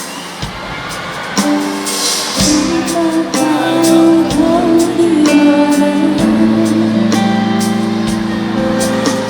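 Live band music: a singer holding long wavering notes over sustained instrument tones, with regular drum hits.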